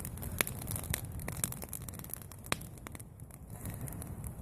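Campfire crackling, with a few sharp pops, the loudest about two and a half seconds in, over a steady low rumble.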